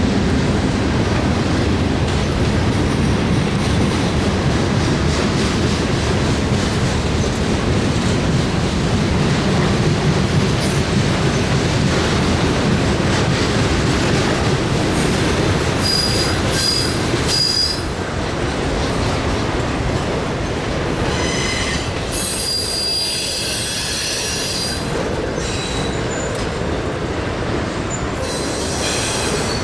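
Union Pacific train cars rolling past with a steady rumble. High-pitched wheel squeals break in several times in the second half.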